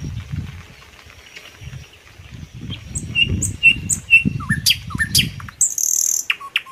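Birds calling, a run of short chirps and quick falling notes from about three seconds in, over an uneven low rumble.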